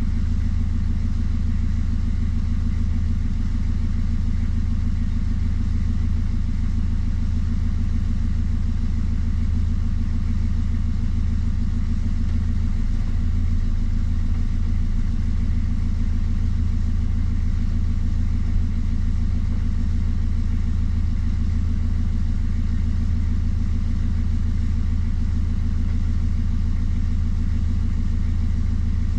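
Hire cruiser's inboard diesel engine running steadily under way, a constant low drone that does not change in speed.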